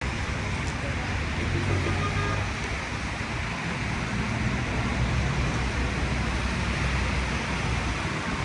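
Steady city road traffic on a rainy evening: a low engine rumble under an even hiss.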